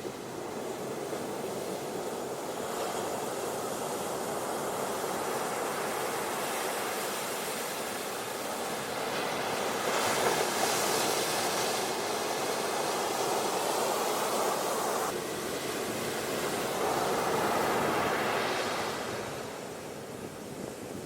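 Ocean surf washing onto a beach: a steady rush of water noise that swells and ebbs in slow surges and eases off near the end.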